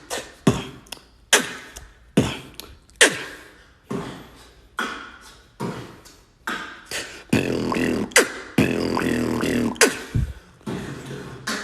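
Mouth beatboxing. Sharp percussive strokes come about once a second, then from about seven seconds in a denser pattern runs over a steady low hum, easing off near the end.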